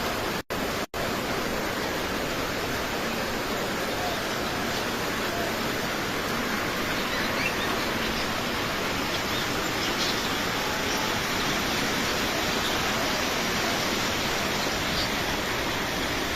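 Steady hiss of heavy rain falling, even and unbroken, apart from two very brief dropouts in the audio near the start.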